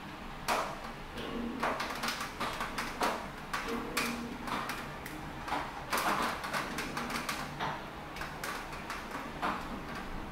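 Rain falling, with big drops striking a hard surface in irregular sharp taps, several a second, over a steady hiss.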